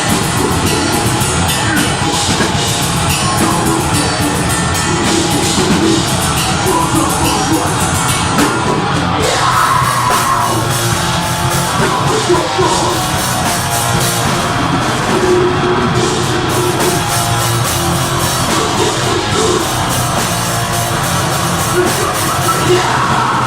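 A deathgrind band playing live at full volume: distorted guitars and fast, dense drumming.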